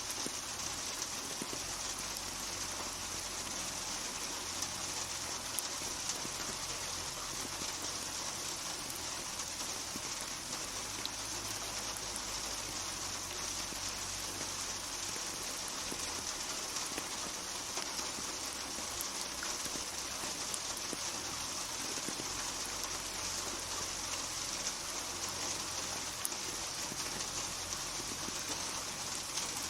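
Steady rain falling: an even hiss of many drops, with occasional sharper drop ticks standing out.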